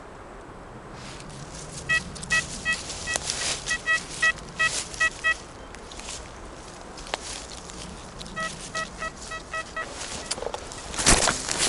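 Metal detector giving two runs of short repeated beeps, about three a second, the signal of a buried metal target. Near the end come loud crunching steps in forest litter.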